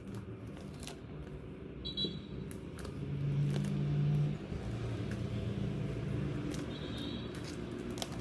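Low engine rumble of a passing motor vehicle, swelling to its loudest about three to four seconds in and then easing off, with scattered light clicks and taps over it.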